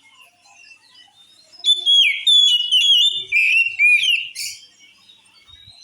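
Oriental magpie-robin singing: a rapid run of loud, varied whistled notes with sliding pitches. It starts a little under two seconds in and breaks off about a second before the end, with only faint chirps around it.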